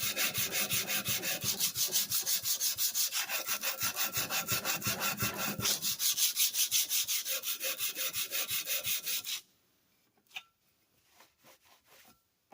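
Cast-iron body of a Sargent 409C hand plane rubbed back and forth on 150-grit sandpaper, tilted to sand a chamfer along the edge of its sole, in a steady rhythm of rasping strokes about four a second. The strokes stop abruptly about nine seconds in, followed by a few faint clicks.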